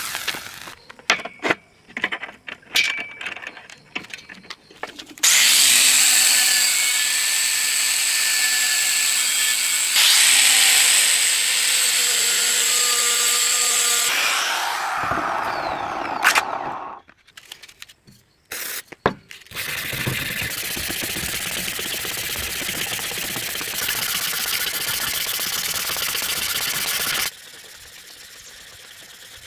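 Power grinder grinding a forged steel knife blade: a few sharp knocks and clicks, then long stretches of loud, steady, hissing grinding. The grinding breaks off briefly about halfway through and then resumes.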